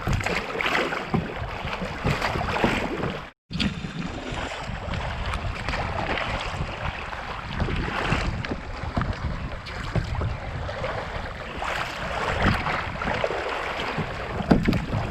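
Wind buffeting the microphone over water splashing and slapping against a canoe being paddled through choppy, wind-blown water. The sound cuts out completely for a moment a little over three seconds in, then resumes.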